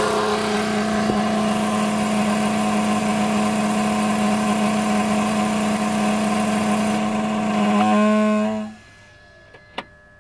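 BMW E46 3 Series engine running with a steady pitched groaning drone that wavers just before it cuts off as the engine is shut down, near the end; then a single click. The groan comes on startup and shutdown and remains after a power steering pump replacement.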